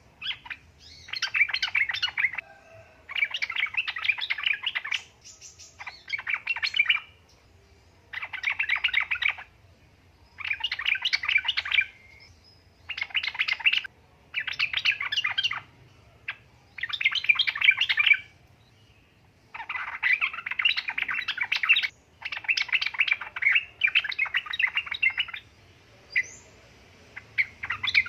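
Yellow-vented bulbul (trucuk) singing: repeated bursts of quick, bubbling notes, each lasting a second or two, with short pauses between them.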